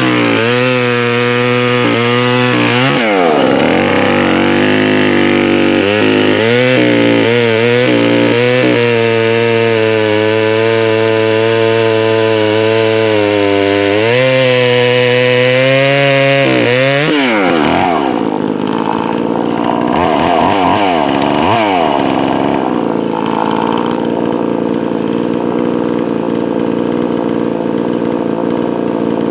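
Poulan Pro 4620 two-stroke chainsaw running at high revs, its pitch dipping and recovering again and again as it works through wood. About 18 seconds in it drops to a lower, rougher running with a few short revs. The saw has a new piston and is being run rich for break-in.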